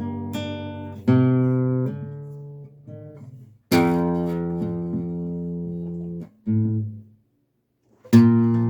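Acoustic guitar chords strummed one at a time and left to ring, a long one from about four seconds in fading for over two seconds; a short chord is cut off near seven seconds, then a moment of silence before another strum near the end.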